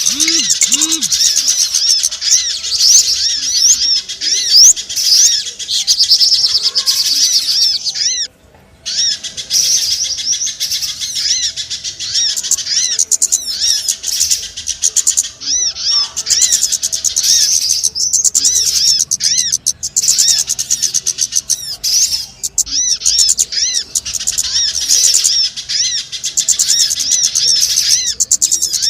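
Bird-lure recording of many small birds chirping over one another, a dense, loud, high twittering of quick repeated chirps. It drops out briefly about eight seconds in.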